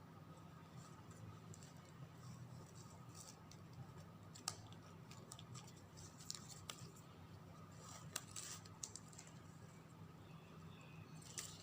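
Faint rustling and small clicks of ribbon being bent and threaded through loops by hand, with a sharper tick about four and a half seconds in and another about eight seconds in, over a low steady hum.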